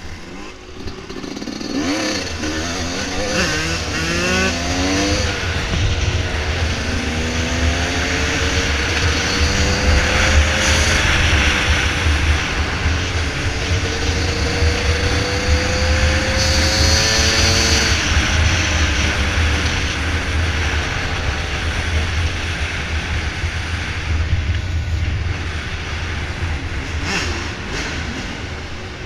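Dirt bike engine running under way, its pitch rising and falling again and again as the throttle is worked, over a heavy low rumble; it gets louder about two seconds in.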